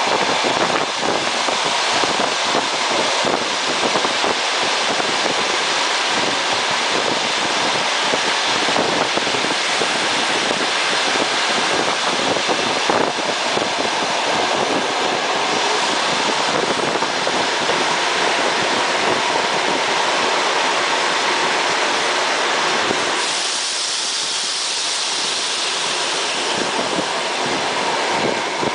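Moving passenger train heard from its carriage window: a steady rush of wheels on rail and air. About 23 seconds in, the sound thins and turns hissier.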